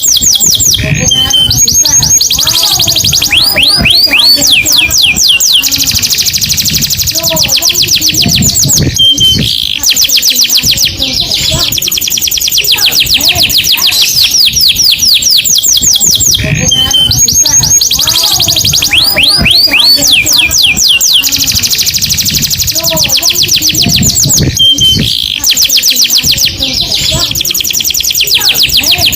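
Canary song in fast, high trills and rolls, one run after another; the same passage repeats about every 16 seconds, as a looped training recording does.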